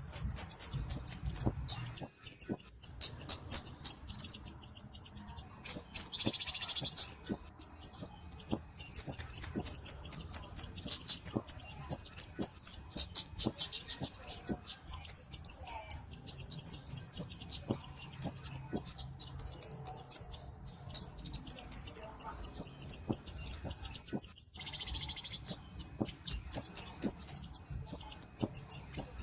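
Kemade, the 'cabe-cabean' flowerpecker, calling in long runs of rapid, high, thin chips, several a second, with short breaks between runs. A harsher, rasping note comes about six seconds in and again near the end.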